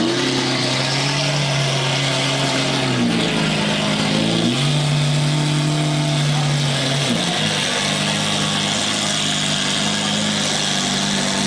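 Car engine running at steady revs, its pitch dipping and climbing back about three times.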